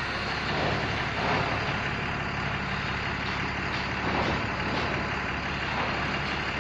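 Steady vehicle engine and traffic noise, with a low engine hum and a few gentle swells as vehicles pass.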